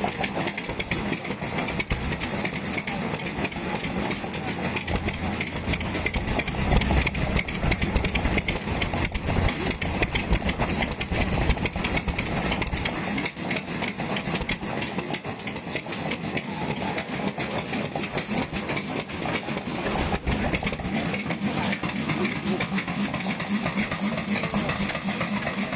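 Vintage Japanese stationary oil engines (hatsudōki) running with a rapid, steady beat of exhaust knocks. The deep low thud weakens about halfway through.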